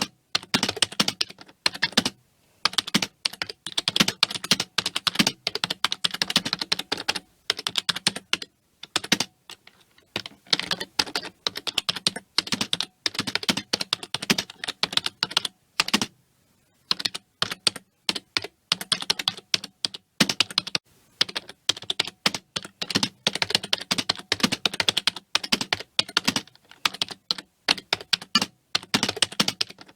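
Fast, continuous typing on a computer keyboard: runs of rapid key clicks broken by brief pauses every few seconds.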